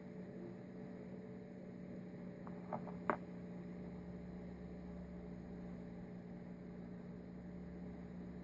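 Steady low electrical hum, with a few light clicks about three seconds in, the last one the sharpest.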